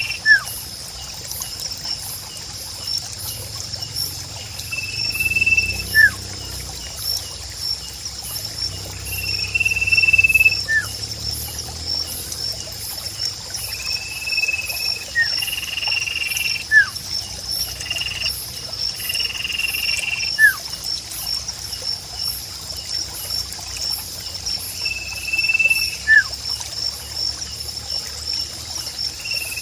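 A sirpu bird whistles a clear, level note about a second long every few seconds, with short, sharply falling chirps in between. Under it runs a steady, high, rapidly pulsing insect trill in a nature ambience.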